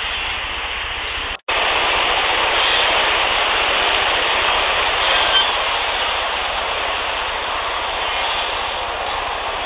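Steady loud hiss of a boosted outdoor field-recorder clip, broken by a splice into the next clip about a second and a half in. About five seconds in there is a brief faint high note, one of the whistles that the recordist attributes to Sasquatch.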